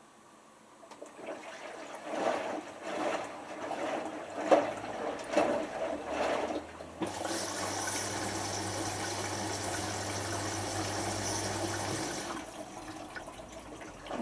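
Hotpoint HF8B593 front-loading washing machine in its first rinse: water sloshing in surges as the drum turns, then from about seven seconds in a steady rush of water with a low hum for about five seconds, typical of the rinse water running in.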